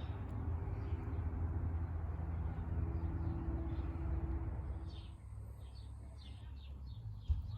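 A low rumbling noise that fades out about five seconds in, after which birds chirp in short repeated calls, with a single sharp click near the end.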